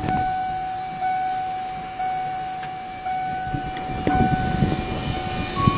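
Dashboard warning chime of a 2003 Ford E250 van, a steady electronic tone restarting about once a second. Near the end it changes to a higher tone.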